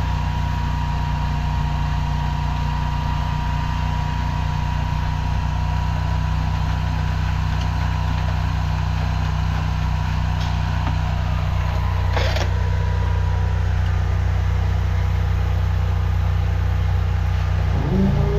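High-pressure drain jetter's engine and pump running steadily while the jetting nozzle works through roots in the sewer line. A single sharp knock about twelve seconds in, and the engine speeds up right at the end.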